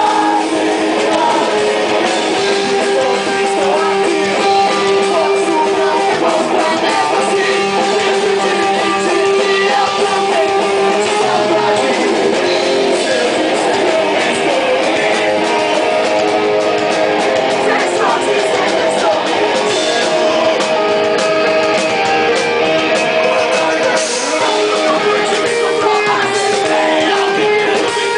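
Live rock band playing loud and distorted, with electric guitars, drums and a singing voice, heard through a small camera microphone.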